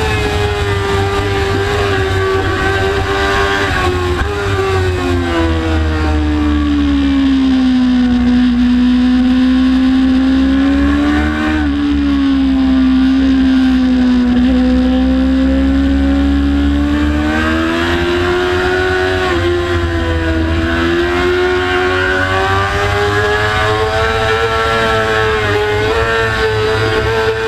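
Motorcycle engine running hard, heard from on board. Its note falls gradually for several seconds, stays low for a while, then climbs back up and holds high, with a couple of brief breaks in pitch along the way.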